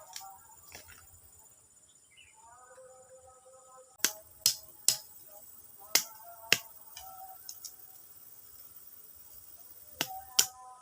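A series of sharp clicks or snaps, five in the middle and two close together near the end, over faint background music.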